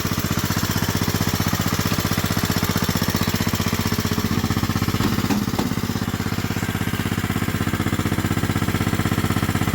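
Kohler Command 16 hp lawn mower engine running steadily at a fast, even beat. There are a couple of short knocks about five seconds in.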